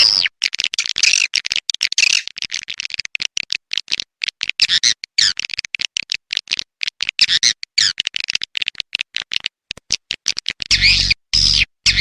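Recorded swiftlet calls played as a lure call for swiftlet houses: rapid, dense high-pitched chirping and twittering in quick choppy bursts. Near the end a few bursts carry a low hum under the chirps.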